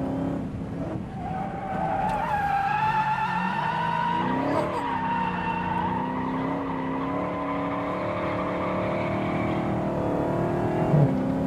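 Car tyres squealing in long, wavering tones as the car slides through corners, over the steady note of its engine. There is a brief knock near the end.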